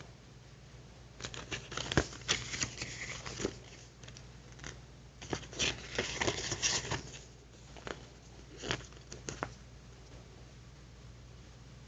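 Packaging rustling and crinkling as items are handled and taken out of a snack delivery box, in three short bouts.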